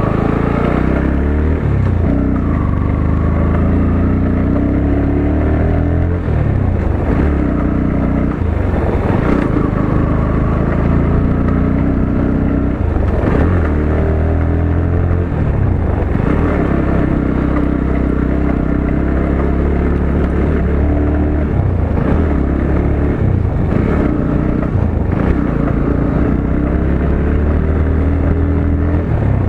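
Motorcycle engine running under way on a rough road, its pitch rising and falling again and again as the throttle is opened and eased off.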